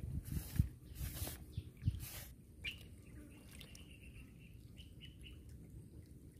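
Rustling and a few low knocks close to the microphone in the first two seconds as the hook is baited, then a bird chirping several short notes over faint outdoor background.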